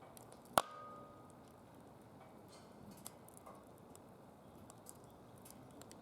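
Wood fire crackling in a DOD Mecha Moe Fire fire pit: scattered small pops over a low hiss, with one loud sharp crack about half a second in that leaves a brief ringing tone.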